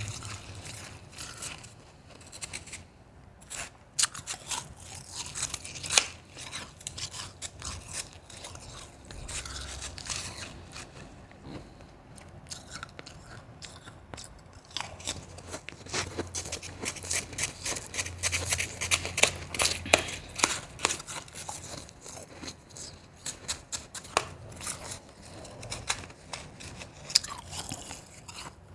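Close-up chewing of soft, crunchy ice made from spring-water ice cubes: a run of sharp crunches and crackles, thickest about halfway through, with a brief lull a few seconds in.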